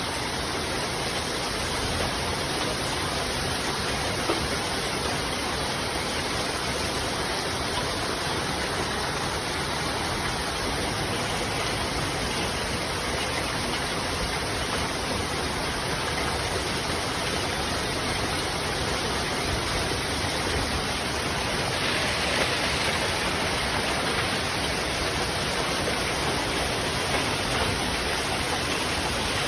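Hailstorm: hailstones and rain coming down hard in a dense, steady patter, a little brighter from about two-thirds of the way in.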